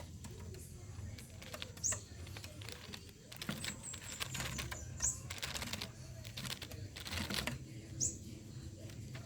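A bird giving short, sharp, high chirps about every three seconds, three times, with rustling and crackling in between, loudest in the middle.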